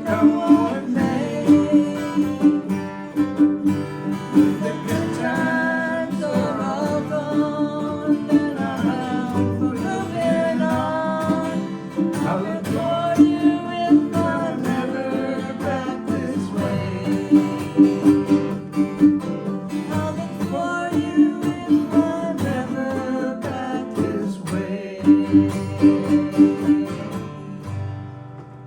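A country-folk song on strummed acoustic guitar, with a melody line over the chords; it grows quieter near the end.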